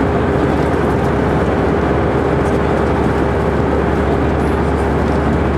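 Steady cabin noise inside an Airbus A319: a constant jet-engine drone and rushing air, with a steady mid-pitched hum running through it.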